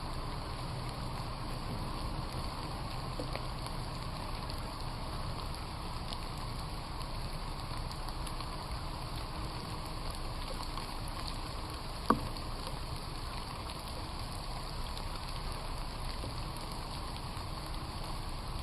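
Steady rain falling in a forest, an even hiss of drops on leaves and ground. A single sharp tap stands out about twelve seconds in.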